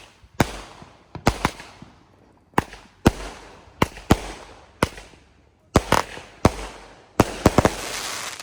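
Aerial fireworks going off: an irregular string of sharp bangs, about one every half second to second, each trailing off in a fading rumble, coming thicker near the end.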